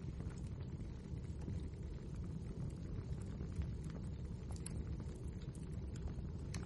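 Wood fire burning in a fireplace: a steady low rumble with many small, irregular crackles and pops.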